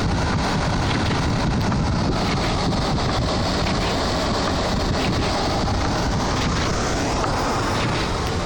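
Strong blizzard wind gusting at 50 to 80 km/h and buffeting the microphone: a loud, steady rush of noise.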